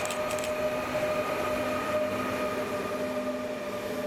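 An ÖBB Taurus electric locomotive passing close by, its traction equipment giving a steady whine over the rumble of wheels on rail, with a few sharp clicks of wheels over the track in the first half second. The low-floor wagons of a rolling-highway train carrying lorries follow, rolling by.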